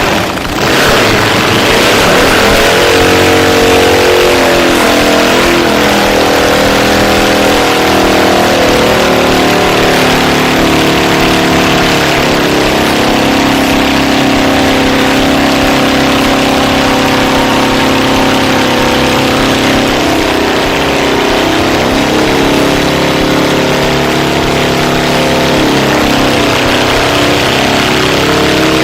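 Motorcycle engine revving hard and held at high revs for long stretches. Its pitch climbs in the first few seconds and dips and climbs again twice in the second half.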